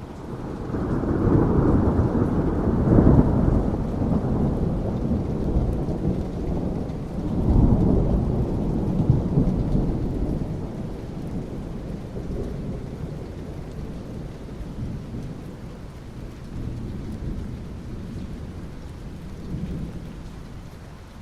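Thunder rumbling over steady rain: a deep rumble builds in the first couple of seconds, swells again about seven seconds in, then slowly dies away, with the soft hiss of rain underneath.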